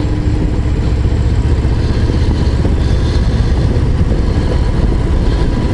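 Harley-Davidson Low Rider ST's V-twin engine running steadily while riding, a low, even exhaust note with no change in revs.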